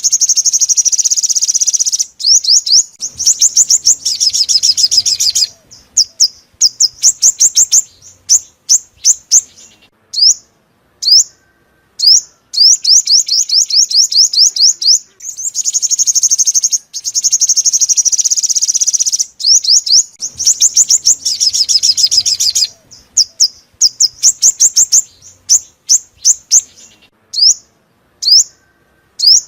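Sunbird song, the 'five-colour' sunbird used as a trapping lure. Fast, high, buzzy trills of quick falling notes alternate with strings of separate sharp chirps, and the sequence repeats about halfway through.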